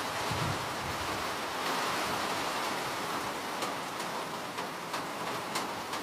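Steady rain falling as an even hiss, with a few sharper drops ticking in the second half.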